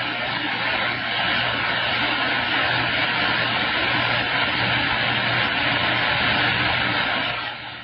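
CB radio receiver static: a steady rush of hiss from the radio's speaker, with a faint low hum, that drops off a little before the end.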